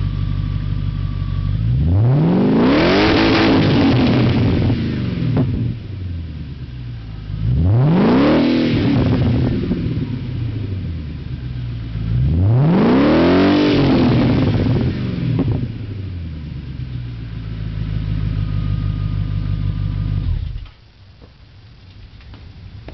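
Audi A8 engine with its muffler removed, idling and then revved three times, each rev rising in pitch and falling back to idle. The engine sound cuts off suddenly near the end.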